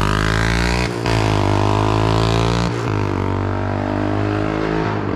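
A loud car engine pulling away under throttle, its note breaking and dropping twice, about a second in and near three seconds.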